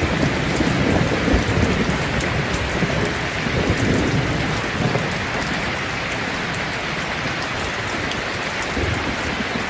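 Steady rain falling, with low rumbles of thunder swelling and fading through the first half.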